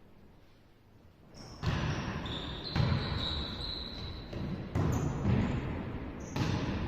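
Volleyball play on an indoor court: the ball thudding off hands and floor, and sneakers squeaking on the court surface, starting about a second and a half in after a quiet moment.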